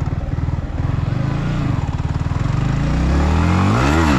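KTM RC 200's single-cylinder engine running at low speed in slow traffic, then revving up with a rising pitch about three seconds in.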